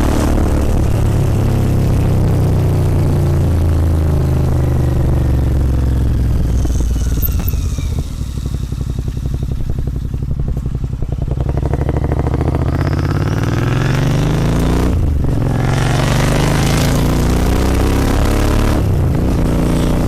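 Royal Enfield Continental GT 650's parallel-twin engine through a Red Rooster aftermarket exhaust. The revs fall as the bike slows and then settle to a quieter low-rev pulsing for a few seconds. The engine then accelerates, revs rising through two upshifts, each marked by a brief break in the sound.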